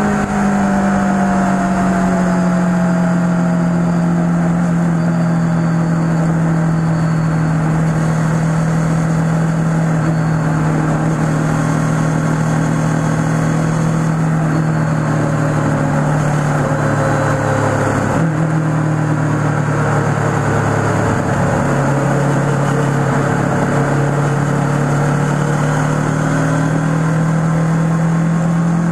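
Kawasaki ER-6n's parallel-twin engine running at a steady cruise. Its note sags slowly, breaks briefly about two-thirds of the way through, and rises again near the end.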